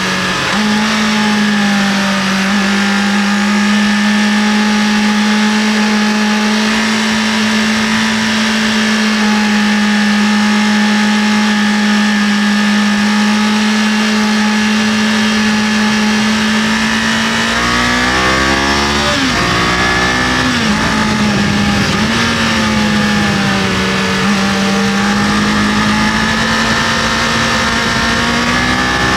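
Kawasaki KLE500 parallel-twin motorcycle engine running at a steady cruising pitch under a constant rush of wind and road noise. A little past halfway the engine note swings up and down for a few seconds as the revs change, then settles back to steady.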